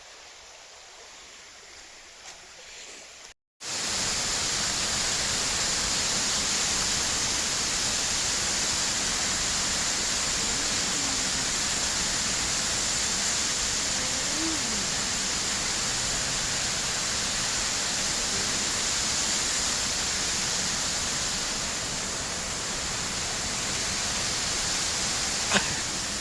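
Waterfall rushing with a steady, hissing roar of falling water. It is quieter for the first few seconds, then after a brief break it comes in much louder and close, and holds steady to the end, with one small click near the end.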